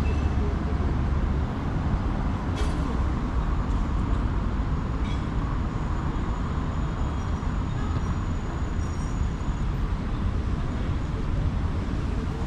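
City street traffic: a steady low rumble of engines and tyres, heaviest for the first second or so, with a single sharp click about two and a half seconds in.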